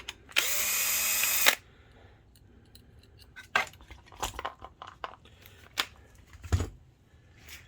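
Electric screwdriver run in one loud burst of about a second, spinning up as it starts, as the screws come out of the projector's cooling fan. Scattered clicks and taps of small parts being handled follow.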